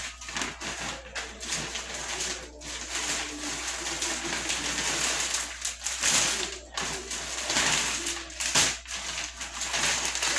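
Plastic packaging and shopping bags crinkling and rustling as new baby items are handled and taken out.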